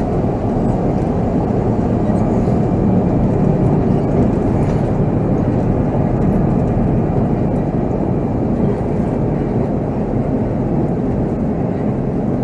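Volvo B7R coach's diesel engine running under way together with road noise, heard from the driver's seat: a steady, loud low rumble with no clear revving up or down.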